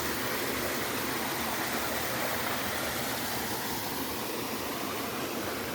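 Steady rushing of running water from a stream, an even hiss with no breaks.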